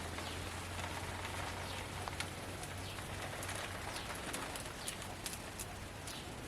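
Outdoor ambience with a steady hiss and birds calling in short, falling chirps, more often in the second half. A low hum runs under the first few seconds.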